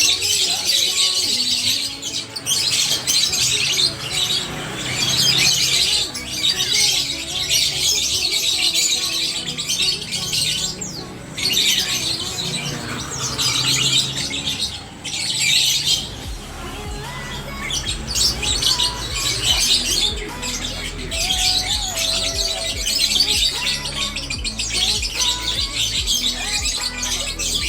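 Many caged songbirds chirping, trilling and squawking at once, without a break. Music plays underneath, with a bass beat that comes in about halfway through.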